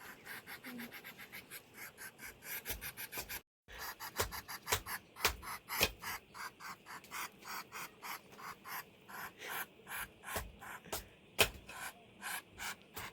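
Rapid, even rasping strokes, about four to five a second, like something being scraped or rubbed hard back and forth, broken by a brief gap about three and a half seconds in.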